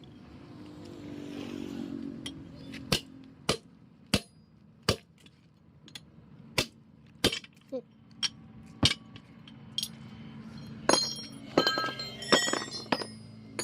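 Hammer blows: a string of about a dozen sharp single knocks roughly two-thirds of a second apart, then metal tools clinking and ringing near the end.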